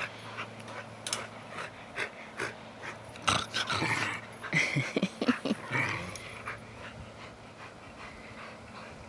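Dogs playing together: scuffling, with short dog vocal sounds in a busier stretch about three to six seconds in, then quieter.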